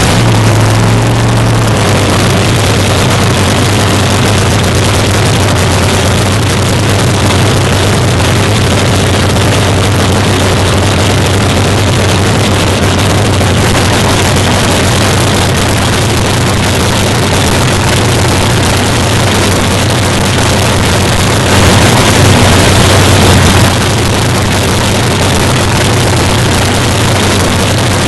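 Fuel altered drag car's Chrysler V8 running on fuel through open pipes: a loud, steady cacklefest idle, with one brief rev that lasts about two seconds near the three-quarter mark.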